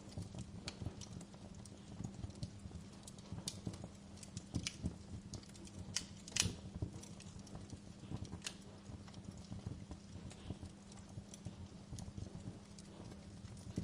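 Wood fire in a fireplace crackling, with irregular sharp pops, the loudest about six and a half seconds in, over a low steady hum.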